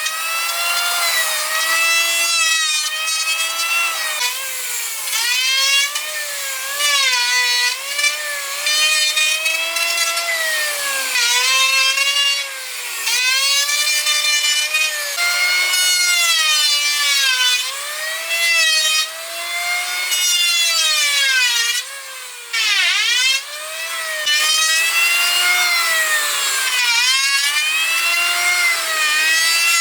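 A power tool cutting wood. Its motor whine drops in pitch each time it bites into the wood and rises again as it frees up, about every one to two seconds, and it bogs down deeply once, about three quarters of the way through.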